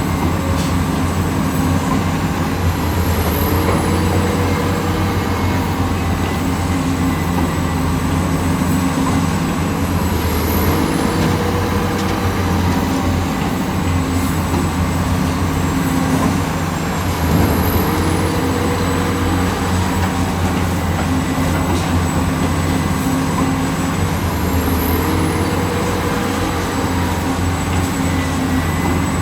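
Heavy diesel construction machinery engine running steadily under load. A short recurring change in its sound comes about every seven seconds.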